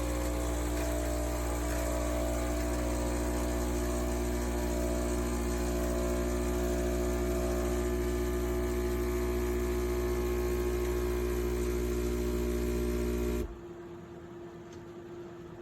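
Espresso machine's pump running with a steady, loud hum, stopping abruptly about thirteen seconds in, after which only faint room noise remains.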